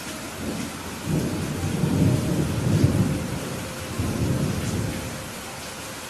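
Thunder rumbling low over steady rain: the rumble builds about a second in, peaks in the middle, swells once more and dies away near the end, while the rain keeps up an even hiss.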